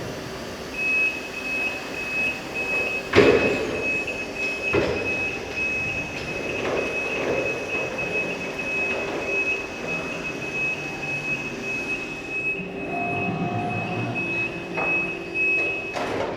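Reach truck forklift running with a steady high warning tone, which stops abruptly near the end, over the sound of the truck's motor and hydraulics. A sharp metal knock comes about three seconds in, and a lighter one a couple of seconds later.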